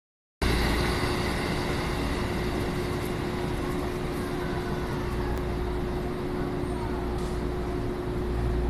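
Electric train running with a steady low rumble and a constant mid-pitched hum.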